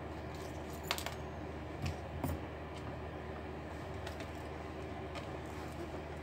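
A few light clicks and clinks of small tools and laptop parts being handled, the sharpest about a second in and twice around two seconds in, over a steady low hum.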